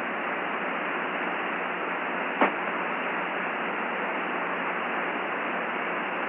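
Steady radio static hiss on the spacecraft's air-to-ground voice link between transmissions, with a single sharp click about two and a half seconds in.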